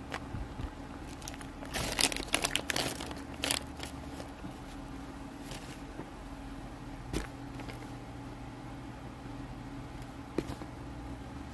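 A burst of crinkling and crackling about two seconds in, then a couple of single clicks later, over a steady low hum.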